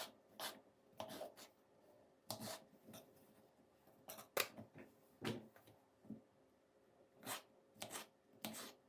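Quiet, irregular clicks and rustles of small objects being handled, about a dozen short sounds with pauses between them.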